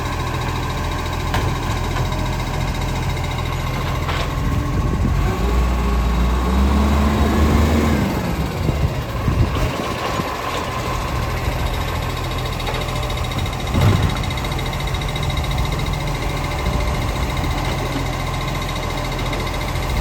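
Garbage truck's diesel engine running steadily, revving up and back down for a couple of seconds about six seconds in, with a single sharp knock about fourteen seconds in.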